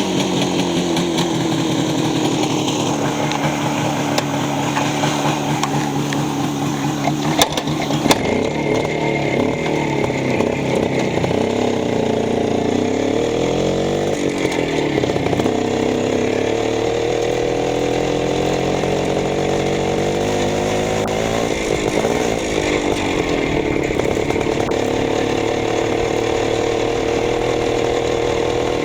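Minsk motorcycle engine running steadily. About eight seconds in, after a couple of sharp clicks, its pitch steps to a new level; it then revs up and down twice.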